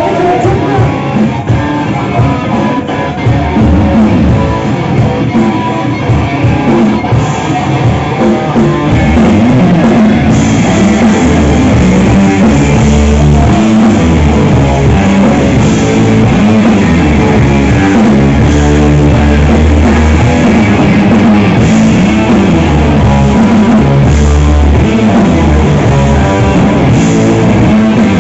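Rock band playing live: guitar and drum kit, with the full band coming in louder about ten seconds in and cymbal crashes recurring every couple of seconds after that.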